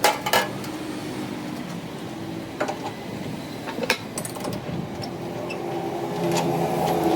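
A motor vehicle engine running steadily, louder toward the end, with a few sharp metallic knocks over it.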